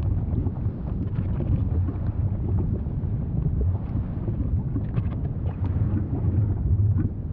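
Volcano's steady deep rumble with scattered faint crackles and pops.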